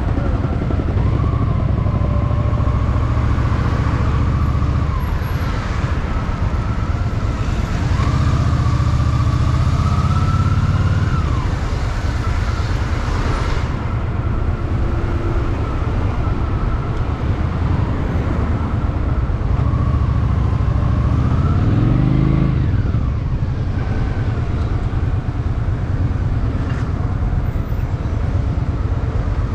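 Honda Shadow VT750's V-twin engine riding in traffic, the engine note rising under throttle and dropping away, with the clearest pull about two-thirds of the way in rising steeply before falling off, over a steady rush of road and wind noise.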